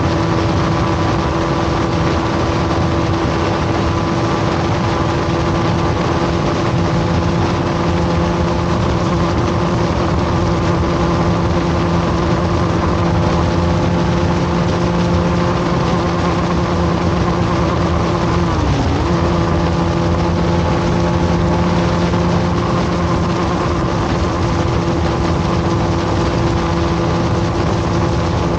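Bajaj Pulsar RS200's single-cylinder engine running at a steady high speed during a top-speed run, with rushing wind noise over it. The engine note holds level, then dips briefly in pitch and recovers about two-thirds of the way through.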